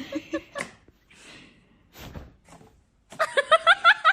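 A person laughing in quick pulsed bursts. There is a pause with a breath and a soft thump in the middle, then another run of laughter about three seconds in, with the pitch rising.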